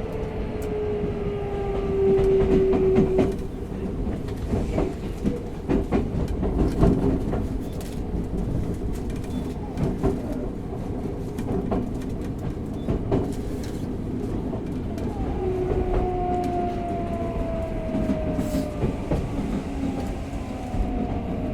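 Tokyo Metro 05 series train with a Mitsubishi IGBT VVVF inverter, running and braking toward a station: the traction motors' whine falls slowly in pitch over a steady rumble, with wheels clicking over rail joints.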